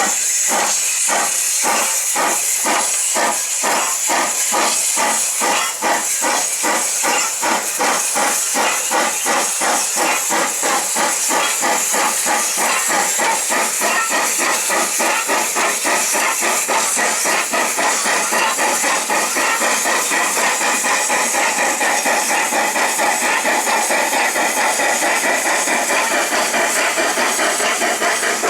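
H.K. Porter 0-6-0T tank steam locomotive working hard from a start: sharp exhaust chuffs, about two a second at first, quicken steadily as it gathers speed until they run together into a fast beat over steady steam hiss.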